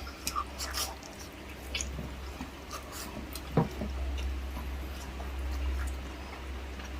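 Close-up eating sounds: chewing with scattered wet mouth clicks and smacks while eating braised pork hock (humba). A steady low hum runs underneath.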